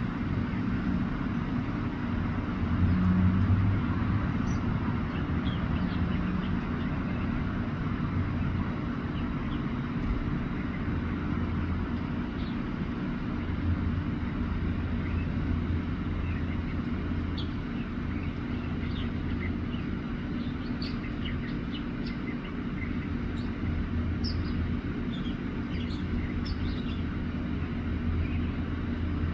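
Steady low rumble of road traffic, the loudest sound throughout, with a northern mockingbird singing short high notes over it, more often in the second half.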